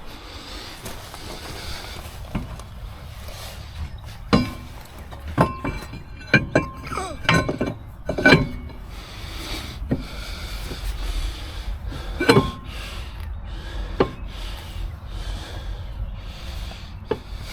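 Metal objects clinking and knocking: a run of sharp strikes with brief ringing, thickest in the middle, over a steady low rumble.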